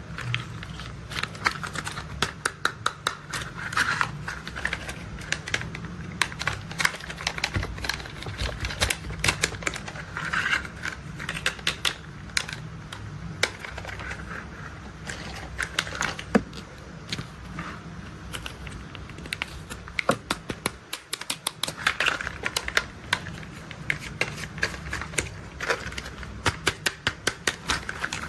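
Plastic toy construction vehicles being handled: dense, irregular clicking and rattling of plastic parts in quick clusters, over a steady low rumble that drops out briefly a little past the two-thirds mark.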